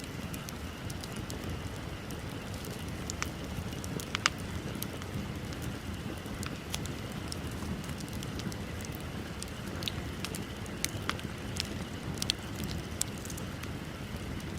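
Wood bonfire burning: a steady low rush of flames with scattered sharp crackles and pops, the loudest pop about four seconds in and a cluster of them near the end.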